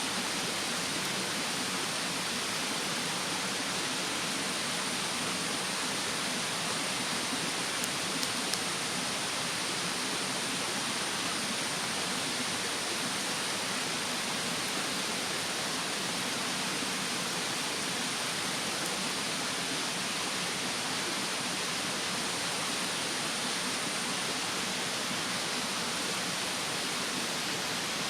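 Steady rushing of a mountain stream, with a thin high steady insect drone over it. A couple of small crackles from the bonfire come about eight seconds in.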